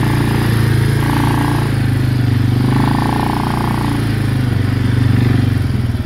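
Quad (ATV) engine running steadily while riding, easing off near the end.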